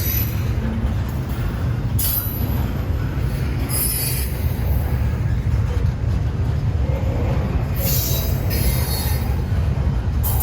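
Train rolling past: a steady low rumble, with short high wheel squeals from the rails several times.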